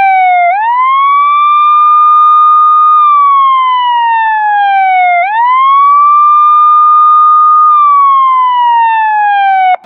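Wail siren: the pitch climbs quickly, holds, then slides slowly down, twice over, cutting in and out abruptly with nothing else audible behind it.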